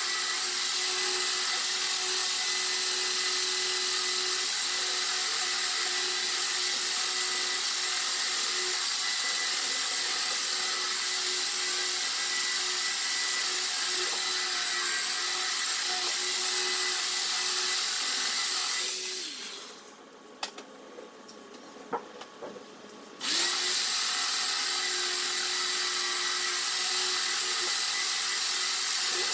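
Power sander running steadily on the car's body panels with sandpaper, a constant motor whine under a sanding hiss. It stops at about 19 s and starts again about four seconds later.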